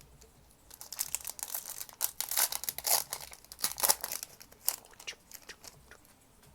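A Magic: The Gathering collector booster pack's foil wrapper being torn open and crinkled. It makes a dense run of crackling for about four seconds, loudest around the middle.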